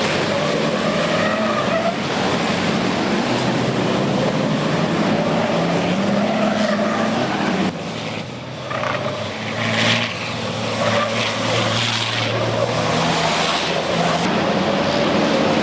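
Turbo-diesel racing trucks' engines running at race pace, the engine note rising and falling with gear changes. It dips briefly about eight seconds in, then swells loudly about two seconds later.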